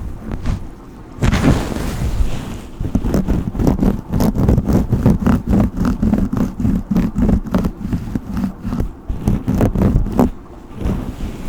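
A brush stroking quickly and repeatedly through hair, in a steady rhythm that starts about a second in and stops shortly before the end.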